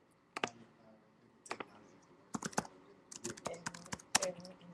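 Typing on a computer keyboard: a few scattered key clicks, then quicker typing from about halfway through.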